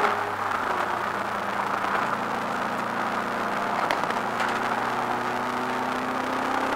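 Subaru Impreza WRX's turbocharged flat-four engine heard from inside the cabin during a race. The engine note drops sharply right at the start as the car lifts off for a corner, stays low through the bend, then climbs slowly in pitch as the car accelerates out.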